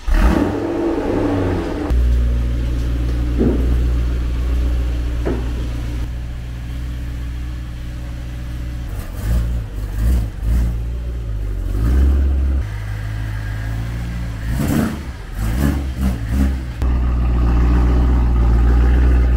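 BMW E92 M3's V8 engine starting with a brief flare of revs and settling into a steady idle about two seconds in, then several short rises in revs as the car is driven.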